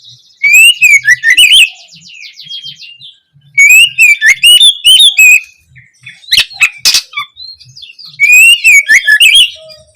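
Oriental magpie-robin (kacer) singing: three loud phrases of rapid, varied whistled notes. A softer buzzy trill follows the first phrase, and a few sharp clicks come about halfway through.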